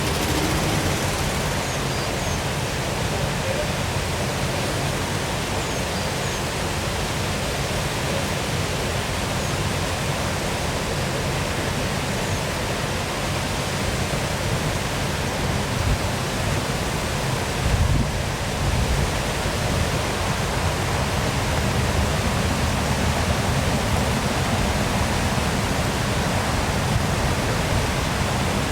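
Waterfall pouring steadily, a constant even rush of falling water. A brief low thump about two-thirds of the way through.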